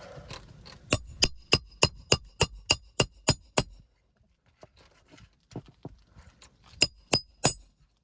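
Steel hammer striking metal, most likely driving or knocking roofing nails, with a bright ring on each blow: a quick even run of about ten strikes at roughly three a second, then a few faint taps, then three more hard strikes near the end.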